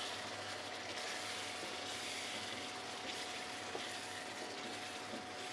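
Chicken pieces and ground spices frying in oil in a pan as they are stirred with a wooden spatula: a faint, steady sizzle with a thin steady tone under it.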